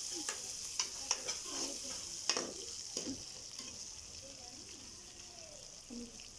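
Onions, tomatoes and ginger-garlic paste sizzling in hot oil in a metal karahi while a steel spoon stirs them, clicking and scraping against the pan several times in the first three seconds. The sizzle slowly dies down toward the end.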